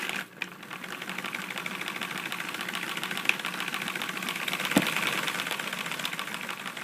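Lego model diesel engine running with its flywheel turning the opposite way: a steady, rapid, even clatter of plastic crankshaft and piston parts, idling smoothly without its usual knock. The clatter dips briefly just after the start, then runs steadily.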